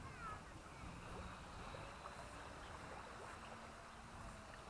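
Wind buffeting the microphone as an uneven low rumble, over a faint hiss of water, with a few faint high chirps just after the start.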